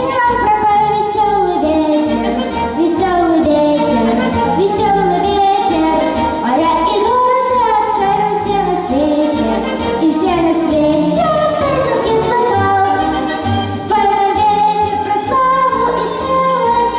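A high voice singing a long wordless melody with vibrato over instrumental accompaniment with a steady low beat.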